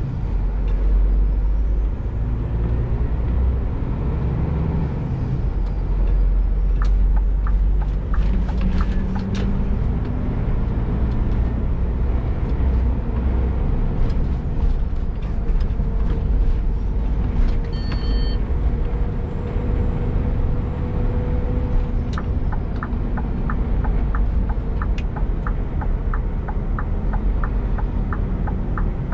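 Scania G410 truck's 13-litre straight-six diesel running under way with a loaded container trailer, a steady low rumble. A short beep comes about two-thirds through, and near the end a regular ticking starts at about two and a half ticks a second.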